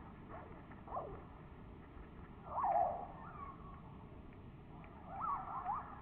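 Small songbirds calling: three clusters of short gliding chirps, the loudest about halfway through and another near the end.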